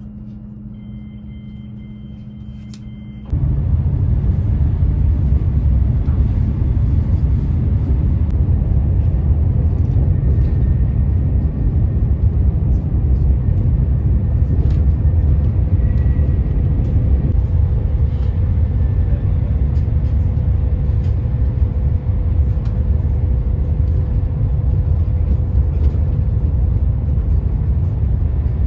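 Inside an ICE high-speed train's passenger car, a quieter steady hum with two faint high tones. About three seconds in it cuts abruptly to the loud, steady low rumble of the train running at speed.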